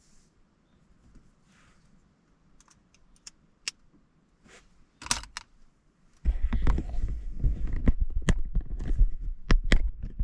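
A few scattered light clicks and taps, then from about six seconds in a dense, much louder run of knocks and rustling with a low rumble, as of objects handled right next to the microphone.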